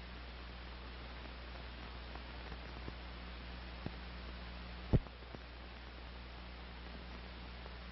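Steady hiss and low hum of an old film soundtrack, with a few faint clicks and one sharp loud pop about five seconds in.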